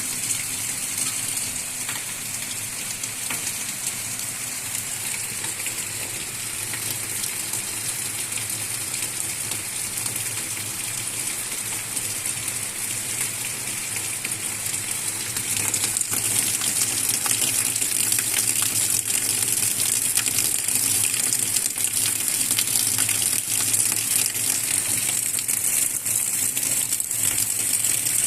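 Heavy rain falling steadily, a dense hiss of drops, which grows louder about halfway through as the shower thickens.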